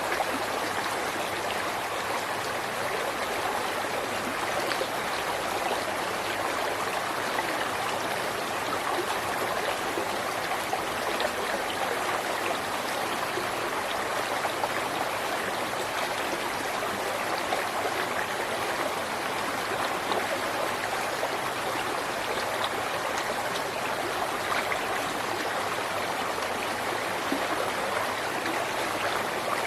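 River water flowing over stones in a steady, even rush.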